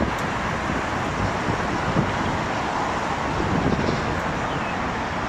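Steady traffic noise: an even, unbroken rush of road noise with a heavy low rumble, starting and stopping abruptly.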